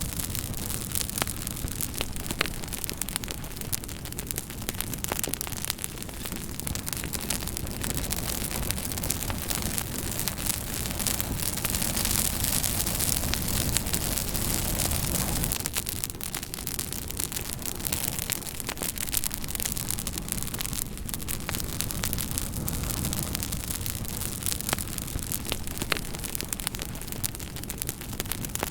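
Campfire burning, with a steady hiss and many sharp crackles and pops from the burning wood throughout.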